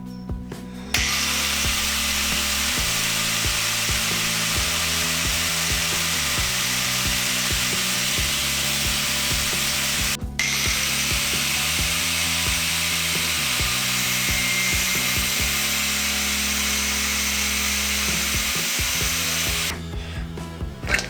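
Angle grinder cutting through the crimped metal fittings of an oil hose, a steady high hiss that starts about a second in, stops briefly about halfway, and cuts out shortly before the end. Background music underneath.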